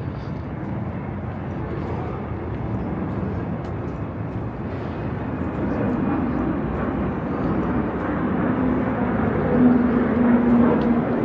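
Outdoor city ambience: a steady low rumble of distant engine noise, swelling over the last few seconds with a low droning tone.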